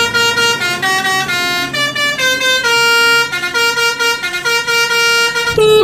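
Telolet bus horn playing a tune of short, quickly changing notes, louder near the end.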